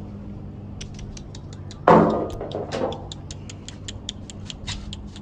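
A sudden loud clatter about two seconds in, fading away over about a second. Under it runs a train of quick light ticks, about five a second, over a low steady hum.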